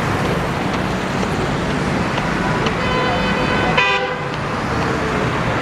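Busy street traffic with vehicle horns: a horn toots for a little under a second about three seconds in, then a short sharp toot right after.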